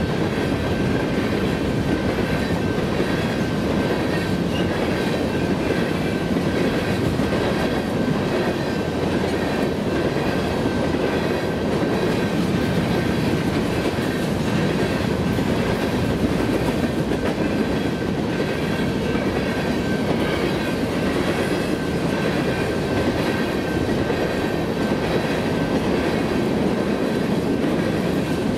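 A long freight train of grain hopper cars rolling past steadily, with a continuous rumble and wheel clatter on the rails. A faint, steady high-pitched ring runs over it.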